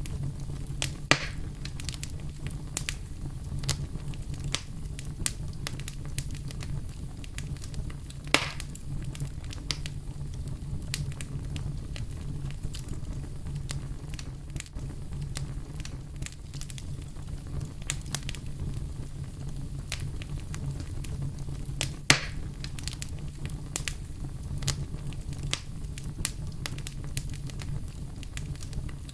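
Fireplace fire crackling: a steady low rumble of flames under frequent small pops and snaps, with sharper louder pops about a second in, near eight seconds and near 22 seconds.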